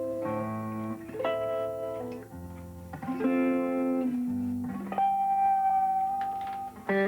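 Solo guitar played in the Muhlenberg thumbpicking style: thumbed bass notes under plucked chords that change about once a second, with one long ringing note near the end.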